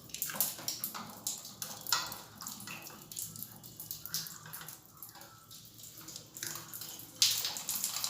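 Water splashing and trickling out of an electric geyser's tank where the heating-element rod has been loosened, in irregular splashes that grow louder and more continuous about seven seconds in.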